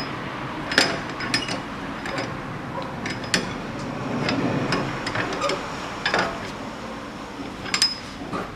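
Slide hammer being screwed into the adapter foot on a car's rear wheel hub: scattered light metallic clinks and knocks, with a stretch of metal rubbing about four seconds in.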